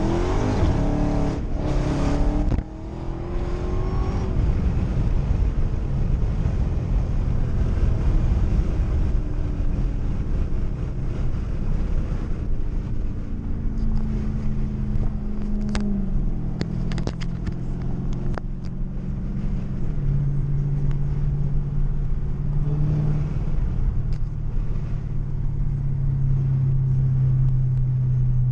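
Dodge Charger Hellcat's supercharged V8 accelerating, its pitch rising for the first couple of seconds before cutting back abruptly, then cruising with a steady low drone that steps up and down in pitch now and then. A few short clicks come around the middle.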